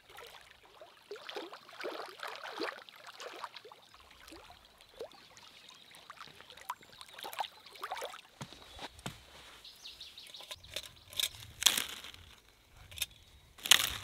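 Outdoor evening ambience of birds calling in a scatter of short, quick, downward-sweeping chirps. A few sharp knocks sound near the end.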